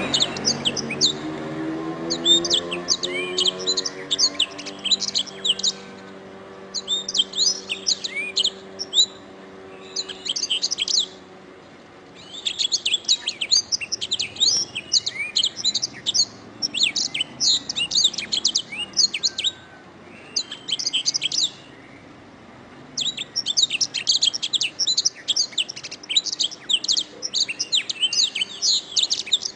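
Domestic canary singing long phrases of rapid high trills and chirps, broken by pauses of about a second. A low humming tone fades away over the first few seconds.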